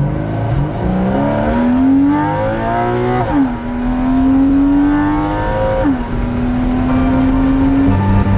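Porsche Cayman's flat-six engine accelerating hard through the gears. The pitch climbs, drops sharply at two upshifts, and climbs again after each.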